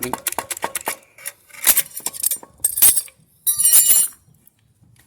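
Hard plastic and metal parts clicking and clinking as a washer's motor coupling is pulled apart and removed: a quick run of clicks, then scraping rattles, and a bright ringing clink about three and a half seconds in.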